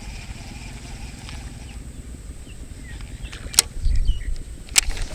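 Strong wind buffeting the microphone, a steady low rumble, with two sharp clicks near the end.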